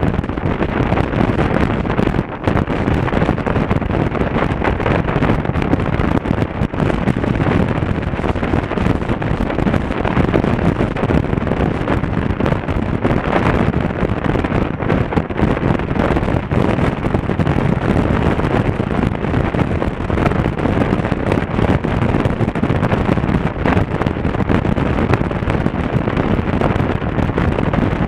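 Wind rushing steadily and loudly over the microphone of an action camera on a moving motorcycle, with road and engine noise mixed in.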